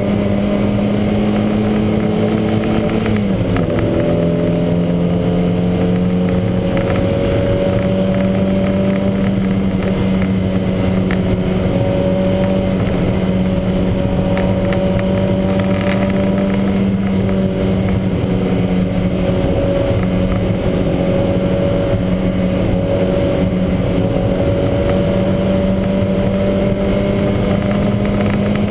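Lancia Montecarlo's twin-cam four-cylinder race engine running hard under load. Its note drops sharply about three seconds in on an upshift, then climbs slowly as the car accelerates in the next gear.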